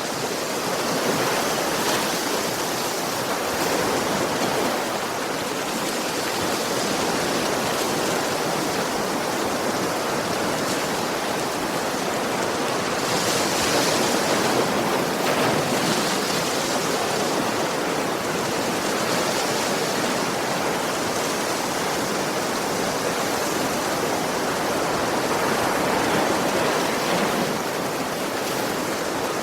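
Sea waves: a continuous rush of surf, swelling slightly now and then.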